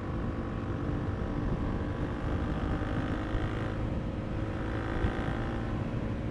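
KTM RC390 motorcycle's single-cylinder engine running at a steady cruise, heard from the rider's own bike, under a thick layer of wind and road rumble.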